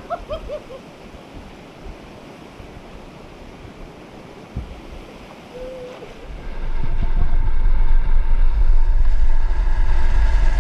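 Wind buffeting the microphone of a moving motorcycle, getting much louder about six seconds in, with a steady engine tone underneath.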